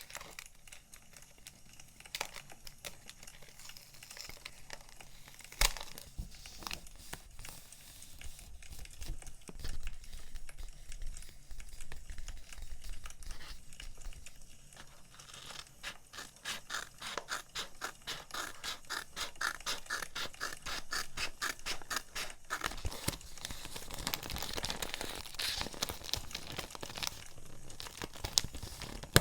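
Paper sticker sheets and packaging being handled, with crinkling, rustling and scraping and the odd sharp tap. From about halfway on there is a dense run of quick crackling strokes, over the crackle of a burning wood fire.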